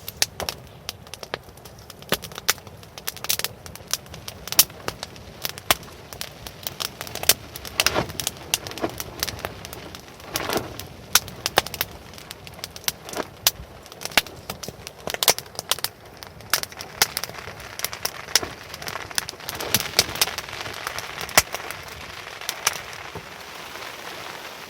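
Wood campfire crackling, with sharp irregular pops several times a second over a soft steady hiss.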